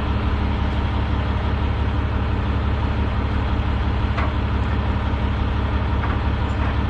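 Semi-truck diesel engine idling steadily, a low even hum, with a faint click about four seconds in.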